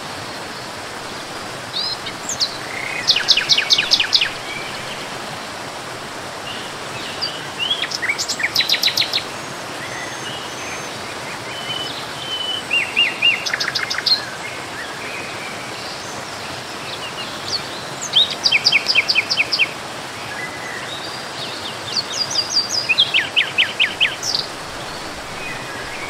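Songbirds singing in short bursts every few seconds. Each burst is a quick run of rapidly repeated high notes, over a steady background hiss.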